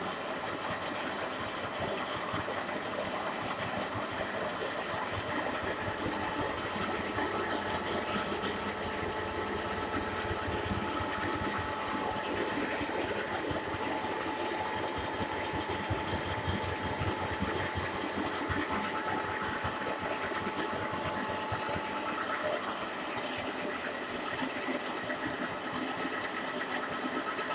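Milling machine running and cutting metal, a steady mechanical noise with a few held whining tones; a run of rapid high-pitched ticking comes about seven seconds in and lasts about four seconds.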